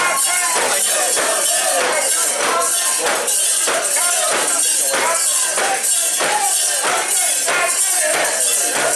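Crowd of mikoshi (portable shrine) bearers chanting and calling rhythmically, with metallic jingling from the shrine's metal fittings on each beat, a couple of times a second.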